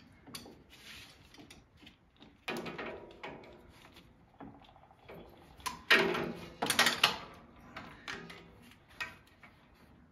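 Irregular metal clanks, clicks and knocks as steel top-link and hitch parts are handled and fitted together. Two sharp clanks about six and seven seconds in are the loudest.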